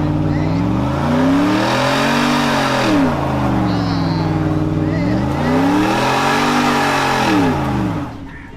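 Truck engine revved hard and let fall about three times in a row, with a steady hiss over it, as in a burnout with the tires spinning; the sound drops away near the end.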